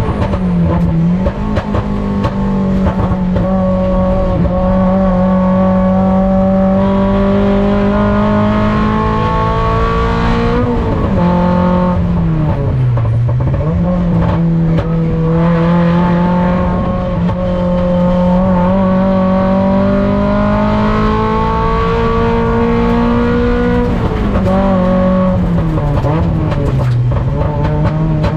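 Mazda Miata race car's four-cylinder engine heard from on board, held at high revs for long stretches, with the revs dropping sharply three times, about a second in, a little before halfway and near the end, as the driver lifts and downshifts for corners, then climbing again.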